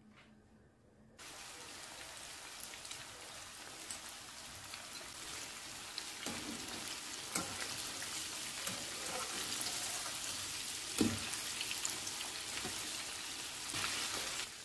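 Batter-coated chicken pieces deep-frying in hot oil: a dense sizzle that starts suddenly about a second in and grows slowly louder. A few clicks of a metal utensil against the pan.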